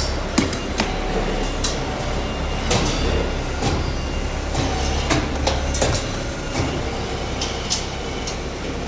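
Metalworking machinery: a steady low motor hum, typical of a hydraulic press's power unit, that cuts off about six seconds in. Repeated sharp metallic clanks and clicks run throughout.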